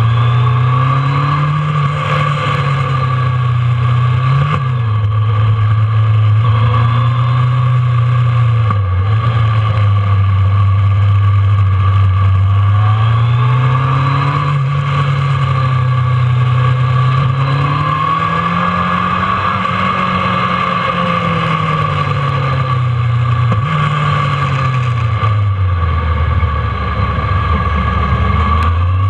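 Kawasaki ZRX1200's inline-four engine pulling hard on the road, heard from on board the bike. The revs climb and drop again and again through gear changes and rolling off for bends, with the pitch falling low near the end. Wind rushes over the bike.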